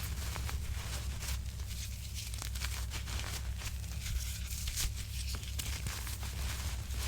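Gym chalk being crushed, a dense run of small crisp crackles and crunches over a steady low hum.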